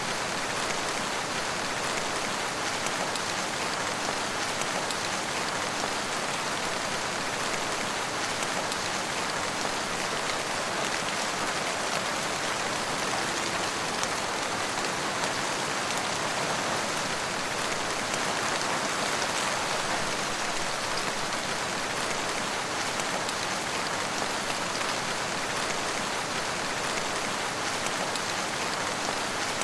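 Steady rain falling on a surface, an even hiss of many drops with no single drop standing out and no change in strength.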